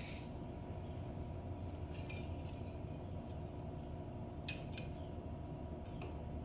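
A few light metallic clinks, spread a second or two apart, as tools and metal parts are handled, over a steady low hum.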